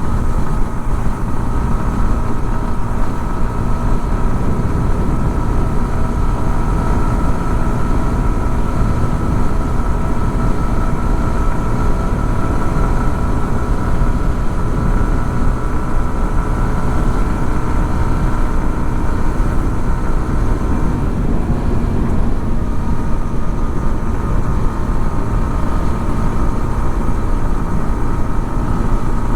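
Yamaha XSR 155's single-cylinder 155 cc engine running at a steady pitch under a dense low rumble, with a slight shift in pitch about two-thirds of the way through.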